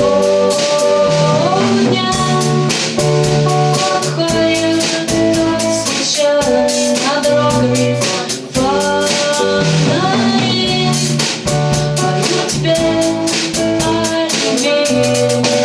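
Band music: guitar and drum kit keeping a steady beat under a held, gliding melody line.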